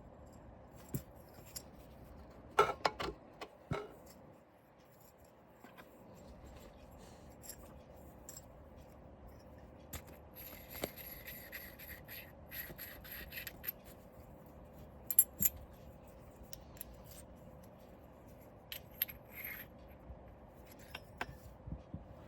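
Hands handling the parts of a drill bit sharpener: scattered clicks and knocks of small pieces being set down and fitted, with a stretch of rubbing and scraping about ten seconds in.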